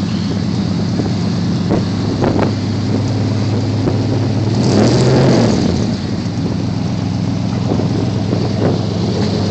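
350 V8 in a 1986 Chevy K10 running through stock manifolds and Magnaflow glasspacks, a steady deep exhaust note with a short blip of the throttle about halfway through.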